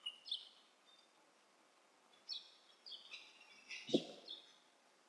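Faint small birds chirping in short, high phrases, with a brief low knock about four seconds in.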